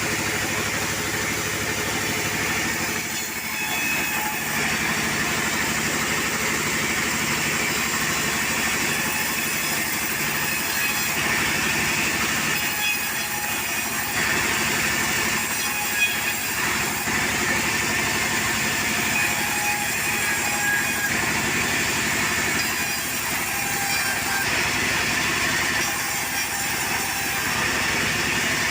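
Portable sawmill running steadily, its engine driving the saw through timber, with the sound shifting in character every several seconds.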